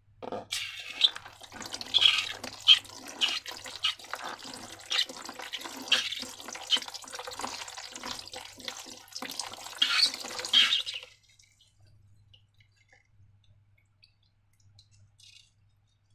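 Wet slime being squished and worked by hand: irregular sticky squelches and clicks that stop abruptly about eleven seconds in.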